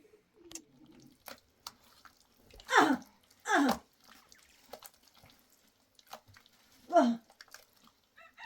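Water splashing three times in short, loud gushes, with scattered drips and small clicks between them.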